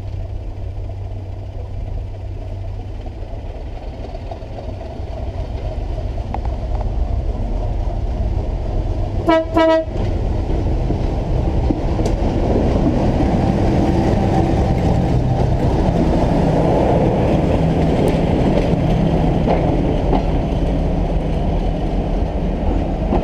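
1957 Land Rover Series I running along railway track on flanged steel wheels: a steady engine drone and rumble of wheels on the rails, growing louder from about six seconds in. One short horn toot about nine seconds in.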